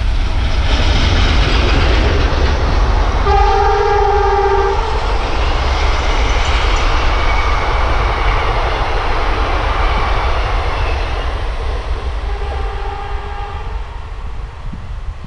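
Diesel-hauled passenger train passing close by, a WDM3D ALCO-type locomotive and its coaches rolling along the track with a loud steady rumble. The locomotive's horn sounds once for about a second and a half, a few seconds in, and once more, fainter, near the end.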